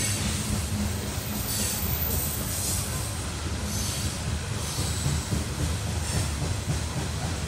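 Freight train rolling past: a steady low rumble of the cars on the rails, with brief high-pitched wheel squeals coming and going about every second.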